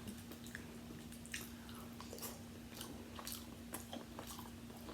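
Close-miked chewing of seafood: a string of faint, irregular, wet smacks and squishy bites, over a low steady hum.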